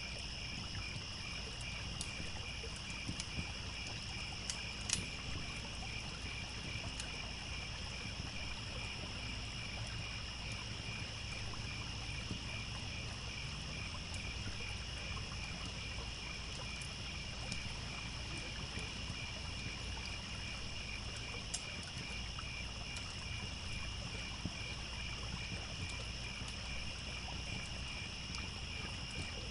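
Crickets chirping in a steady, evenly pulsing chorus over a low, constant rush of a trickling stream, with a few sharp crackles and pops from a campfire, the loudest about five seconds in.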